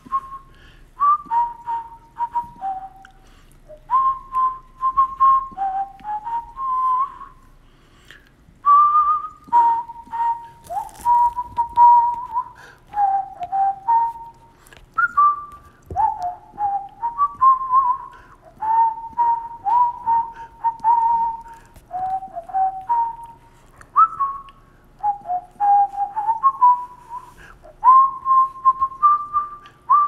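Caged pet-shop birds whistling: a long run of clear notes that slide up or down, one after another with short gaps, with quick chirps from other birds among them.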